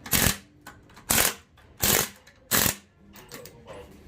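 Four loud blows in an even rhythm, about one every two-thirds of a second, as in repeated hammering during gearbox repair work, followed by quieter clatter near the end.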